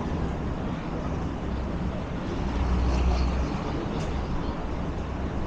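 A steady low rumble of background noise that swells slightly in the middle, with no clear single event.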